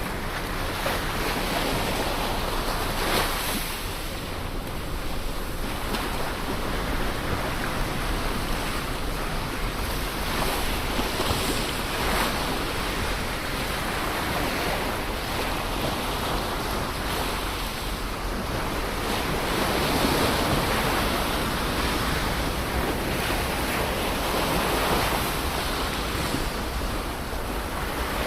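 Ocean surf: waves breaking and washing up the shore in a continuous rush, swelling louder with each wave every several seconds.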